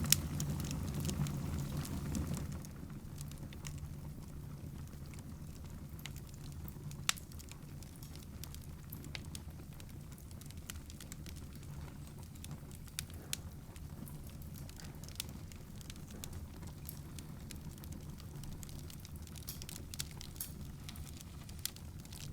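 Wood fire crackling in a fireplace: scattered sharp pops and ticks, the sharpest about seven seconds in, over a steady low hum that drops in level after about two seconds.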